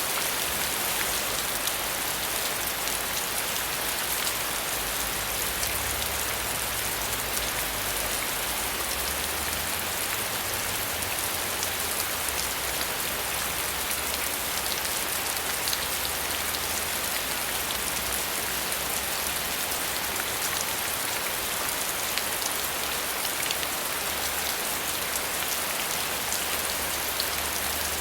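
Steady rain falling, with fine pattering of drops on a surface.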